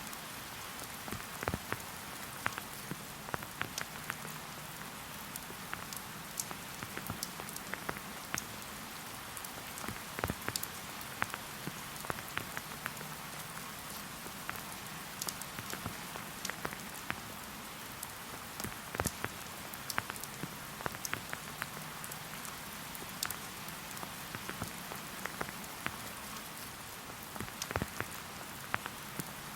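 Steady rain falling, an even hiss with frequent individual drops ticking sharply at irregular moments.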